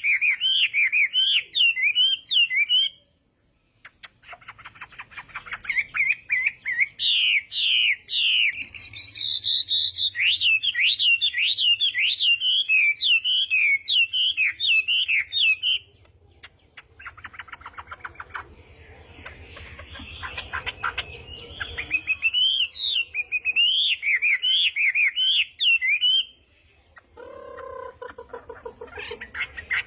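Chinese hwamei singing long, fast, varied warbling phrases, broken by short pauses about three seconds in, around sixteen seconds and near twenty-seven seconds, with some lower notes near the end.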